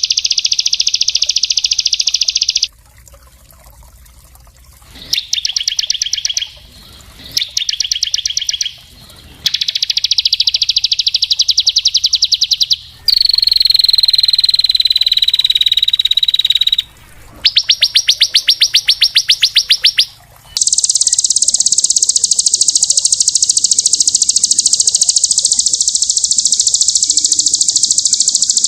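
Recorded song of small songbirds used as a masteran (tutor) track: a run of fast, high trills and rapid chattering bursts with short breaks between them. A long high whistle falls slowly in the middle, and a dense, continuous high trill starts about two-thirds of the way in.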